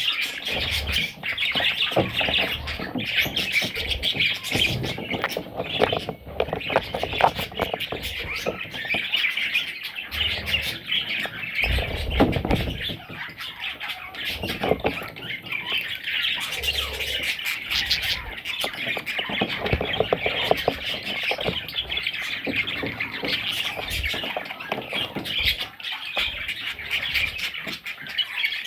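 Budgerigars squawking and chattering nonstop, many raspy calls overlapping, with a few low thuds and rustles of movement, the strongest about twelve seconds in.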